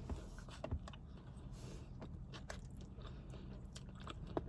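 A person chewing a mouthful of fast food, with faint, scattered wet mouth clicks.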